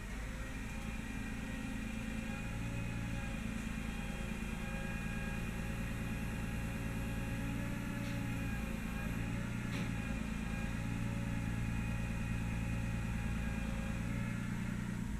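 Utility work truck's engine running steadily, a low even drone that drops off near the end.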